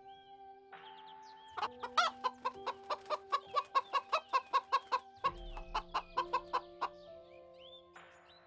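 Chicken clucking in a rapid run of about four calls a second, then a fainter run, over calm background music with long held notes.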